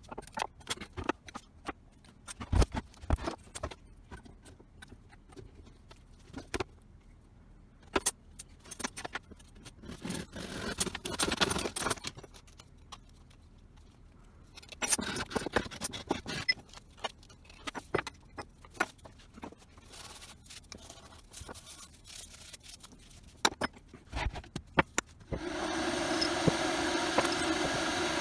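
Clicks, knocks and clatter of small parts being handled, with two short spells of scraping noise. About 25 seconds in, a power tool's motor starts abruptly and runs steadily.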